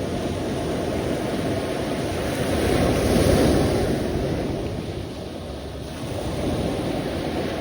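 Sea waves breaking and washing on the shore, a steady surf that swells to a peak about three seconds in and eases off before building again.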